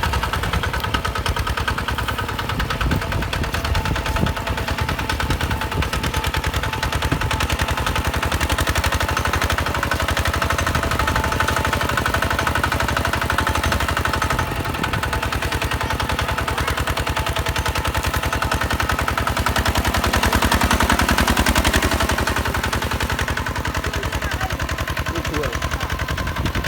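Hinota HG Gold 155 DI diesel engine running with a rapid, steady, chugging pulse. It grows louder for a couple of seconds about twenty seconds in.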